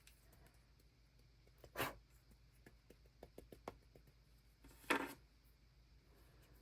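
A clear acrylic stamp block handled on paper at a desk: two soft, brief knocks with a rustle, about two seconds in and again about five seconds in, with faint light ticks between them.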